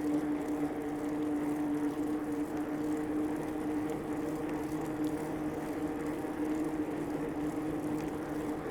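Bicycle riding along a paved path: steady rolling noise with a constant low hum.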